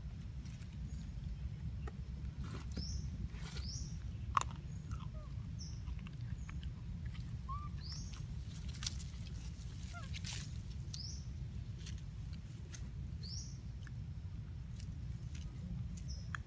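Small bird giving short rising chirps every two to three seconds over a steady low rumble, with a few faint clicks.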